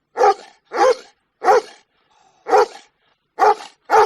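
A dog barking: six short barks, with a longer pause about two seconds in.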